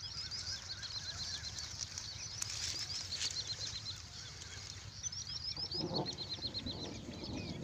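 Small birds chirping in quick series of short, high, downward notes, with a steady low rumble of wind on the microphone underneath. About six seconds in there is a brief burst of lower rustling noise.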